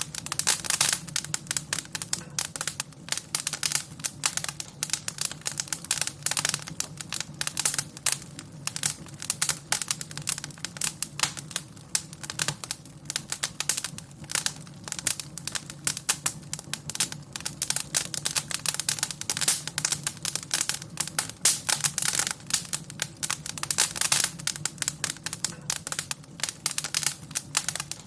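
Wood fire crackling in a fireplace: a dense, irregular run of pops and snaps over a low, steady hum.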